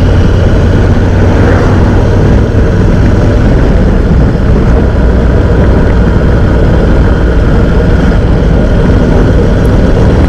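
Honda NC750X motorcycle cruising at a steady speed: a constant low rumble of wind and engine, with no change in pace.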